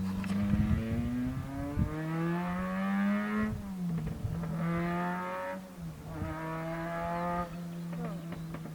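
The racing Zastava's freshly overhauled four-cylinder engine accelerating hard. Its revs climb, then drop abruptly at two gear changes and climb again, before easing to a steadier, lower note near the end.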